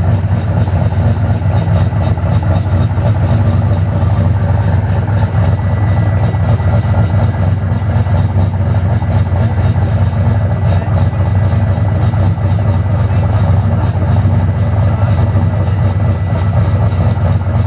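Ford Mustang engine idling steadily with a low rumble, held at idle with no revving.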